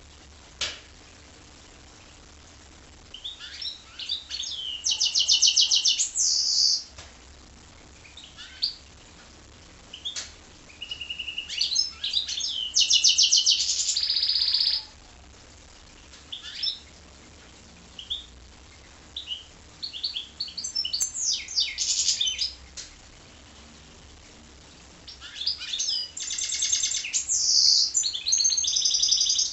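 Goldfinch × canary hybrid (a mule) singing: four long phrases of rapid trills and chirps with short pauses between them. A single sharp click comes just under a second in.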